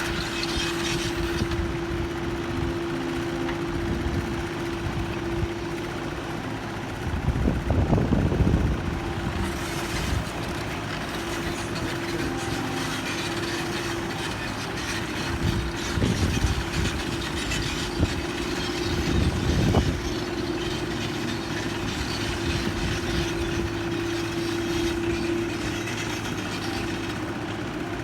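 A steady machine hum holding one constant tone, with a few short swells of low rumble.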